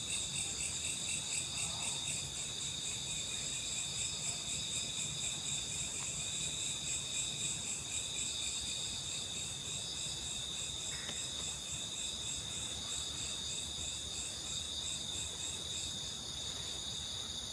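Steady chorus of crickets and other insects chirping at several high pitches, with a fast pulsing shimmer that does not let up.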